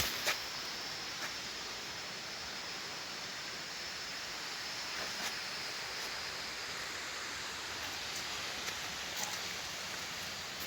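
A steady, even rushing hiss, like running water, with a few faint clicks and a faint high tone that fades out about halfway through.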